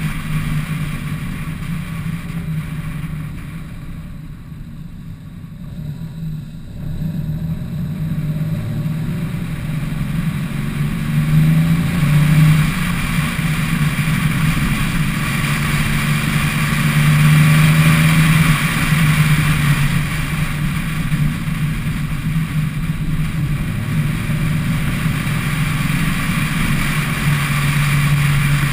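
Car engine running on the move, its hum swelling and easing with the throttle: quieter about four to seven seconds in, louder around twelve seconds and again a little later. Steady wind and road noise is heard through a camera mounted outside on the hood.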